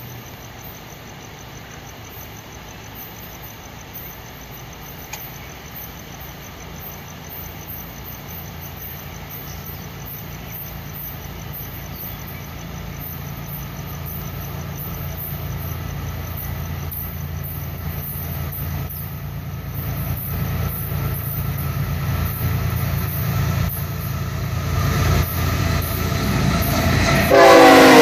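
A Florida East Coast Railway diesel freight train approaching: a steady low engine hum that grows slowly louder as the locomotives draw near. Near the end the lead locomotive passes close by, with a sudden jump in loudness and its sound dropping in pitch as it goes by.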